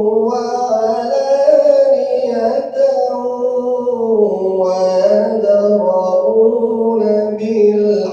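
A male reciter chanting Quranic verses in the ornamented mujawwad tajweed style, holding each word in long, wavering melodic lines with almost no break between them.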